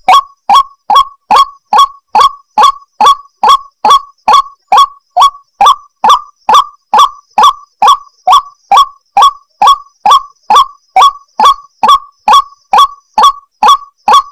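White-breasted waterhen calling: one short, upward-swooping note repeated steadily, a little over two times a second, the monotonous repeated call used as a lure for the bird.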